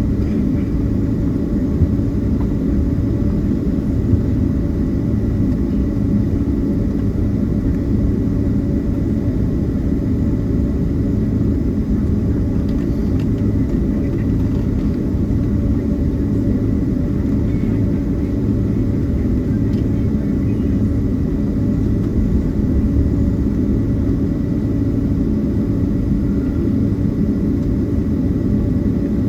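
Cabin noise inside a Boeing 767 taxiing after landing: a steady low rumble from the engines and airframe, with a thin steady high tone over it and a couple of faint ticks.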